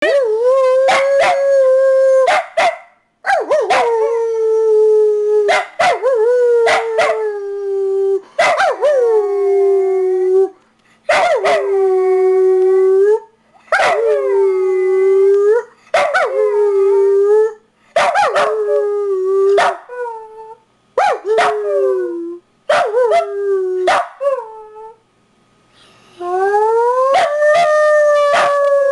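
Dachshund howling: a string of long howls in quick succession, each starting abruptly and sliding down onto a held note. After a brief pause near the end comes a last howl that rises and then falls.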